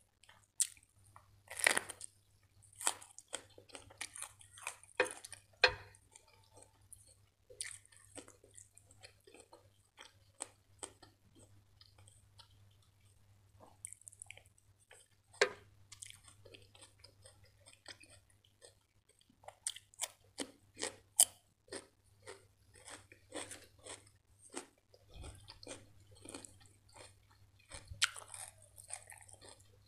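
Close-miked eating: irregular crisp crunches from bites of raw cucumber and green pepper, mixed with wet chewing of rice and butter chicken.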